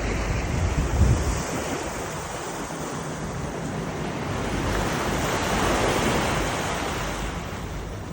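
Wind buffeting the microphone on the deck of a moving boat, over the steady rush of water past the hull. A hard low gust hits about a second in, and the rush swells around five to six seconds in.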